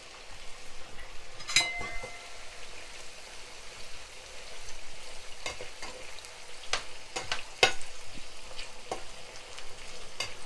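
Potato and carrot strips sizzling in hot oil in a frying pan, stirred with a slotted spatula that knocks and scrapes against the pan. The loudest knock, about one and a half seconds in, rings briefly.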